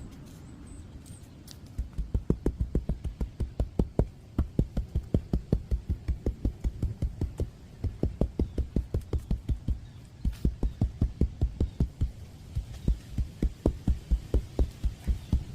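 Rapid, even dull thumps, about five a second in bursts with short pauses, from freshly spread cold-patch asphalt being tamped down.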